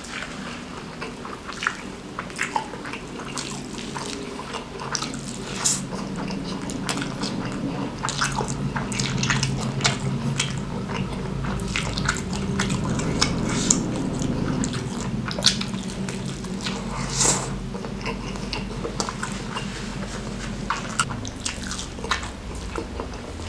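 Close-miked wet chewing and lip-smacking of a mouthful of rice with curry, greens and noodles eaten by hand, with many short sharp mouth clicks.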